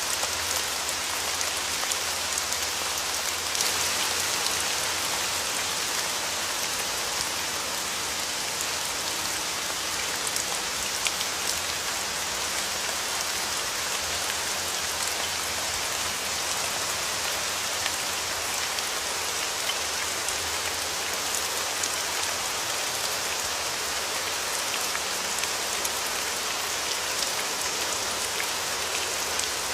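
Steady rain falling on a surface: an even hiss with scattered sharper drop ticks, swelling slightly about four seconds in.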